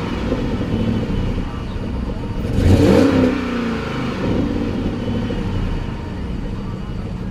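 Hemi V8 running just after a cold start, a steady low rumble that swells briefly about three seconds in.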